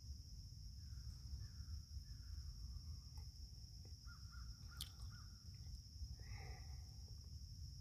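Faint bird calls outdoors: a quick run of about five short calls about four seconds in and another call about six seconds in, over a steady high insect drone and a low rumble. A single sharp click comes near the five-second mark.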